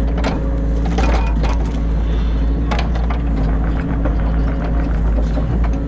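New Holland E50.2 mini excavator's diesel engine running steadily under working load, heard from inside the cab, with irregular knocks and clatter from the machine as it digs.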